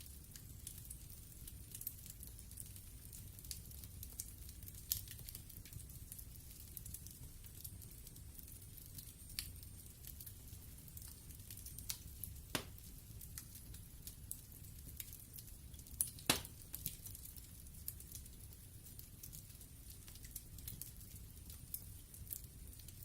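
Wood fire burning in a fireplace: a low, soft rumble and hiss with frequent small crackles and a few louder pops, two of them sharper than the rest about halfway through.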